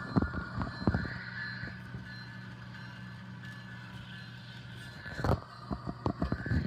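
HO scale model diesel locomotive with onboard sound running on the layout: a steady low engine hum, with a cluster of sharp clicks in the first second and again near the end as the wheels cross track joints.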